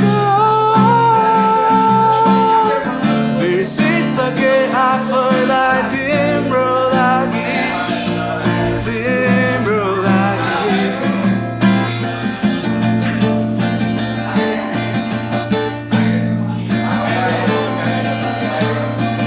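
Acoustic guitar strumming the song's closing passage, with a long held vocal note in the first few seconds.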